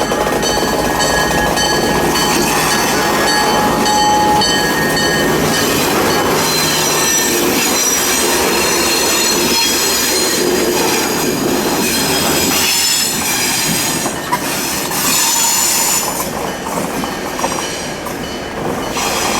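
Fillmore and Western Railway train rolling with its wheels squealing on the rails, several high steady tones at once, over a low hum that stops about two-thirds of the way through.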